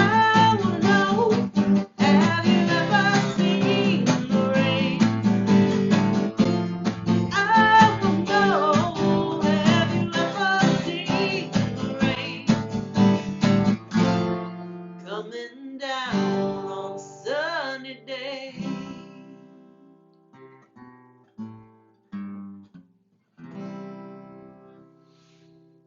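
Acoustic guitar strumming steadily, then thinning about halfway through into sparse picked notes and ringing chords that die away as the song ends.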